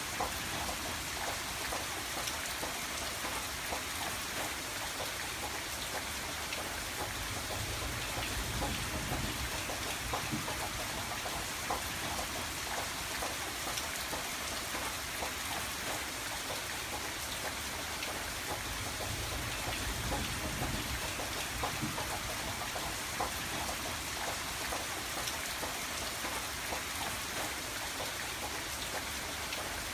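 Steady rain falling on a window, a dense patter of many small drop taps over a low rumble that swells slightly now and then.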